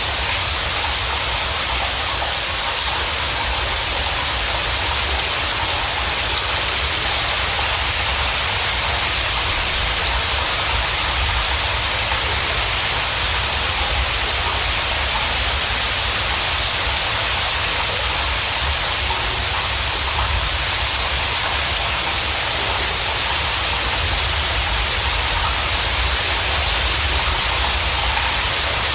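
Steady rain falling: a constant, even hiss with a low rumble underneath, unchanging throughout.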